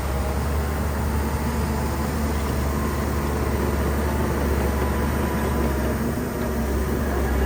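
Shantui bulldozer's diesel engine running steadily under work, a continuous low drone.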